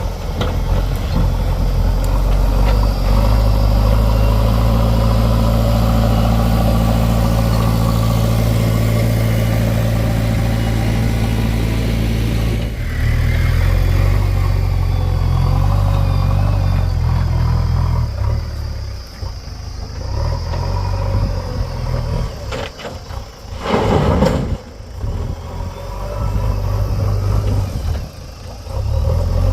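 Heavy diesel engine running hard, held at steady revs for about the first dozen seconds, then rising and falling unevenly, with a short loud burst about 24 seconds in.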